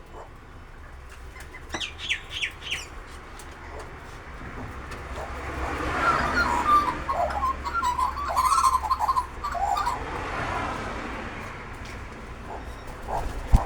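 Several wild birds chirping and chattering: a few short chirps about two seconds in, then a busier run of calls from about six to eleven seconds.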